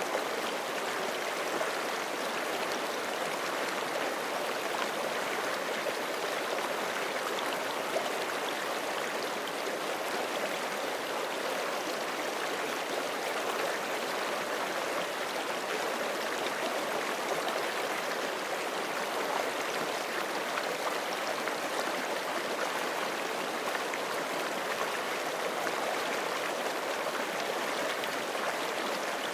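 Forest creek flowing over rocks: a steady, even rush of running water, with a faint splashy fizz in the highs.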